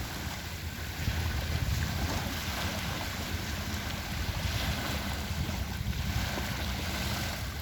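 Wind buffeting the microphone, a heavy uneven rumble, over the steady wash of sea waves.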